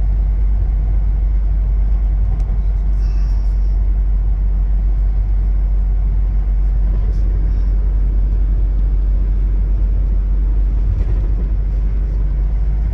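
Steady low rumble of road and engine noise from a 2000 Nissan Frontier XE pickup being driven, with its 4-cylinder engine.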